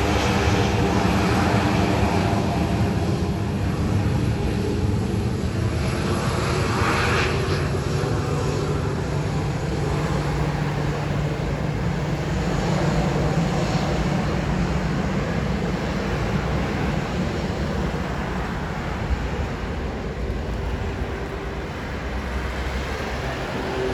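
Jet airliner engines running: a steady loud rumble with a hum of steady tones over it, easing slightly near the end.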